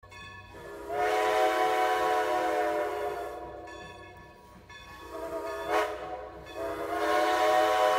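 Train horn sounding three times: one long blast that fades out, then two shorter blasts close together, the last cut off abruptly. A low rumble runs underneath.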